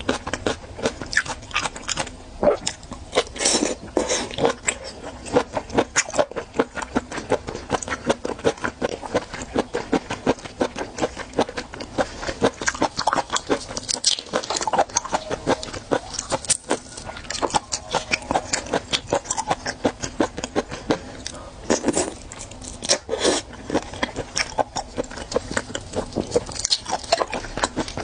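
Close-miked wet chewing and lip-smacking of raw seafood, a dense run of small clicks and squelches, mixed with the crackle of raw prawn shells being peeled apart by gloved fingers.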